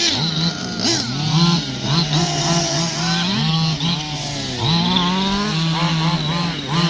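Radio-controlled cars' small engines revving up and easing off over and over, several at once, their pitches rising and falling against each other.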